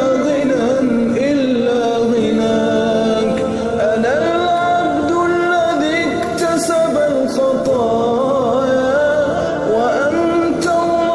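Islamic nasheed: a male voice sings a sustained melody with wavering, ornamented pitch glides.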